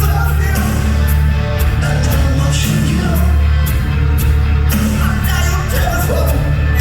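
Live rock band playing loudly: heavy bass and drums with cymbal hits, and a voice singing over the band.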